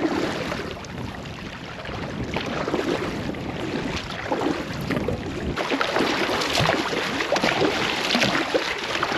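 Canoe paddling: paddle strokes splashing and dripping water against a steady hiss, which gets louder about five and a half seconds in.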